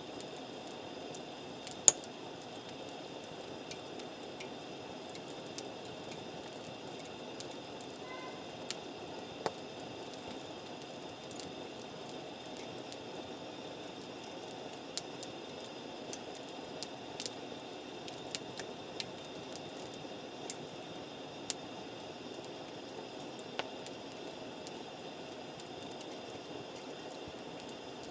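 Wood campfire crackling, with scattered sharp pops over a steady low hiss; the loudest pop comes about two seconds in.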